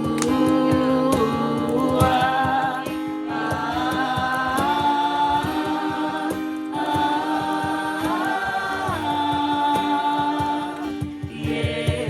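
A group of voices singing a slow worship song, holding long notes that step and glide between pitches, over a strummed acoustic guitar.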